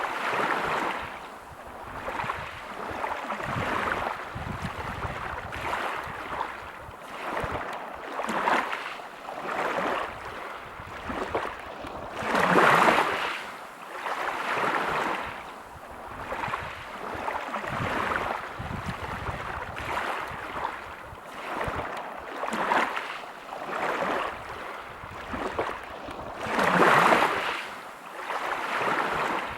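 Waves breaking and washing over a pebble beach in repeated surges every second or two, with two bigger breakers, one about halfway through and one near the end.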